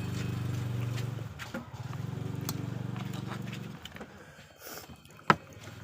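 A small engine running steadily with a fast, even pulse, which dies away about four seconds in. Then a single sharp click.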